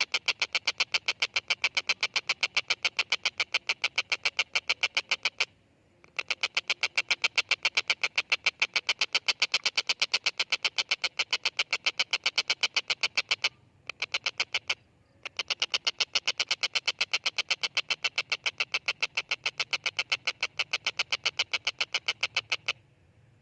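Tengkek buto kingfisher calling: a fast, even series of sharp, high notes, about five a second, kept up in long runs with two short pauses and stopping just before the end.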